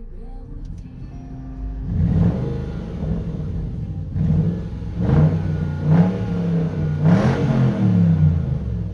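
Range Rover 4.0-litre V8 on its factory exhaust, idling and then revved in several throttle blips, the pitch climbing and falling back each time.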